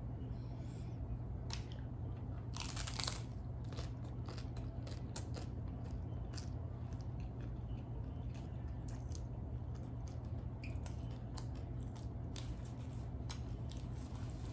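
Crunchy hard-shell tacos being bitten and chewed close to the microphone: a run of many short, sharp crunches over a steady low hum.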